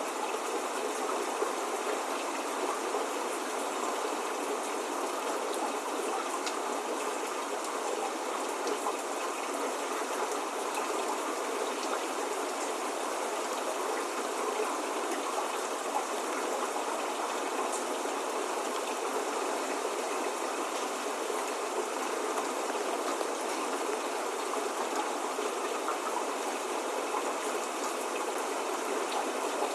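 Steady spring rain falling: an even hiss with scattered individual drop ticks.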